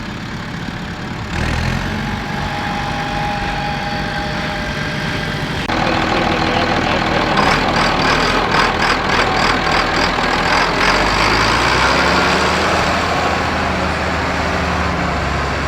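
Large tractor diesel engines running at low revs, the sound changing abruptly twice, about a second in and again near six seconds in, from one engine to another. In the middle an engine gives a regular beat of about four pulses a second.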